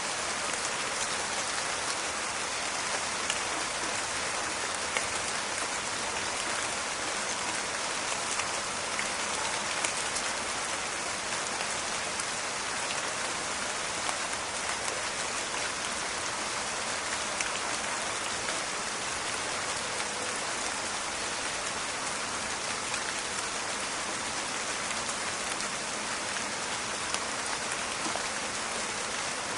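Steady rain falling in a forest, an even hiss with many small crackling drop ticks on leaves and ground.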